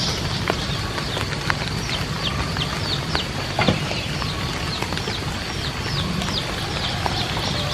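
Chicks peeping: many short, high chirps that fall in pitch, several a second, with a few sharp knocks over a steady background hiss.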